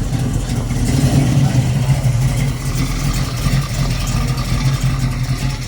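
A car engine running with a low, steady rumble that swells about a second in and eases off toward the end.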